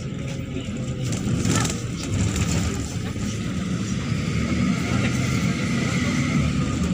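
Neman city bus driving, its engine and running gear making a steady low drone inside the bus, with a short knock about one and a half seconds in. A faint whine slowly rises in pitch in the second half.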